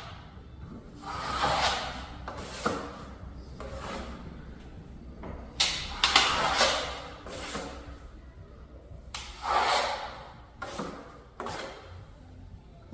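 Steel plastering trowel sweeping across wet joint filler on plasterboard: a series of scraping strokes of a second or two each, several in a row, as the finish coat is smoothed flat.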